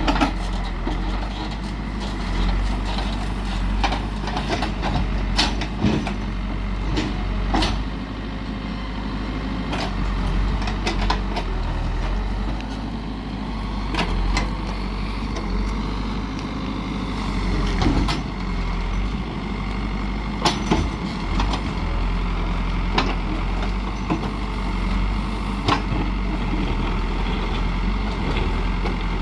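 Heavy construction machine's engine running steadily at a low drone, with irregular clanks and knocks over it.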